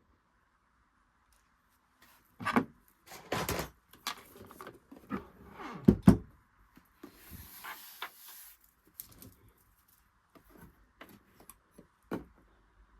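Handling noises: irregular knocks, clicks and rubbing of objects being moved about, with the sharpest knock about six seconds in and a brief hiss just after it.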